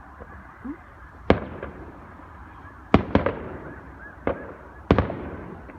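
Fireworks going off in the sky: about five sharp bangs a second or so apart, two of them close together, each trailing off in an echoing rumble.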